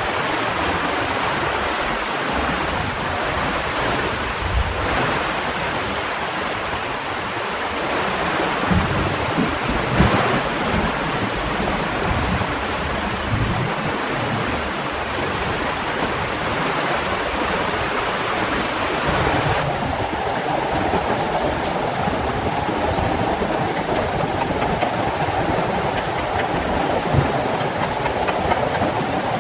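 Heavy rain falling steadily, a dense continuous hiss, with a few brief knocks about nine to ten seconds in and again near the end.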